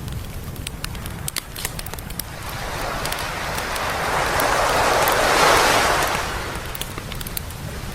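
A sea wave rolling in and breaking on the beach, swelling over a few seconds to a peak past the middle and then fading. Campfire crackling with sharp pops throughout.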